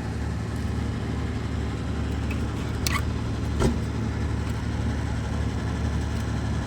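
A steady low mechanical drone, with two short sharp clicks about halfway through.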